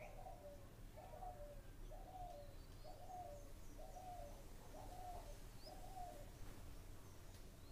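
A bird calling faintly, a short call falling in pitch repeated about once a second, around seven times, stopping about six seconds in. Faint high chirps of small birds come through now and then.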